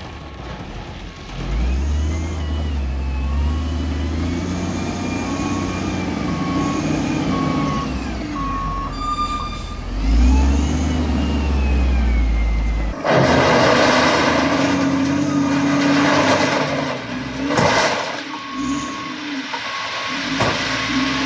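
Heavy diesel earth-moving equipment working, its engine revving up and down under load, with a backup alarm beeping steadily over it. About two-thirds of the way through, the sound switches abruptly to a louder, rougher machine noise, and the backup beeping returns near the end.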